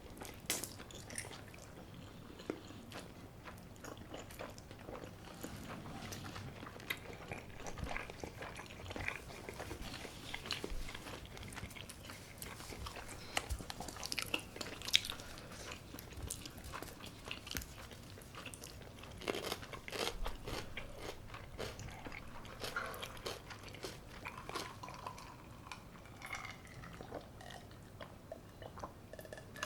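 A person biting and chewing food close to the microphone, with many irregular short crunches and crackles.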